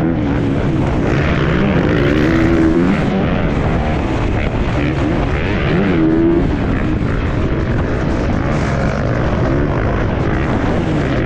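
Motocross bike engines revving, their pitch rising and falling again and again.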